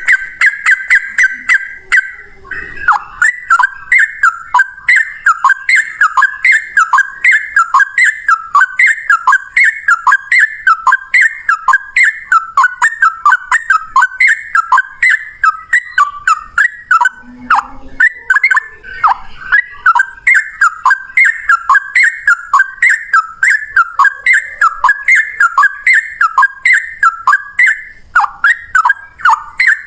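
Sooty-headed bulbul (trucukan) singing a long, unbroken run of rapid repeated whistled notes, about three a second.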